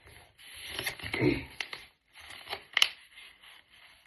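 Sheet of paper rustling and being creased as the last folds of a paper airplane are pressed in, with several sharp crackles of the paper.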